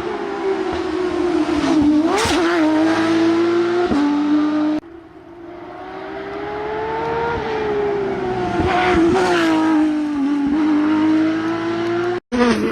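Rally car engines held at high revs, their pitch dipping briefly and climbing back. About five seconds in the sound cuts abruptly to another car's engine, which builds up and holds high before a second cut near the end.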